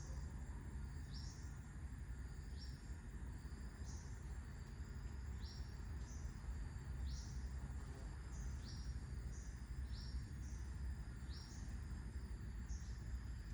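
Birds repeating short, high calls that slide downward, roughly one a second and overlapping at times, over a steady low rumble of wind.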